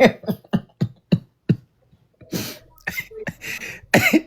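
A person's voice making non-speech mouth sounds: a quick run of short bursts with falling pitch, then a few breathy puffs of air.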